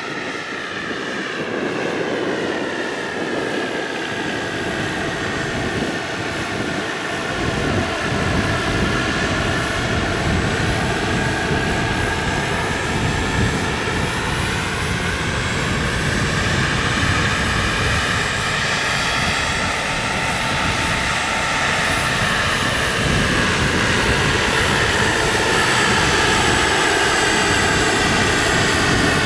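Radio-controlled model helicopter in flight, its motor and rotor whine sliding slowly up and down in pitch as it manoeuvres, growing somewhat louder in the second half.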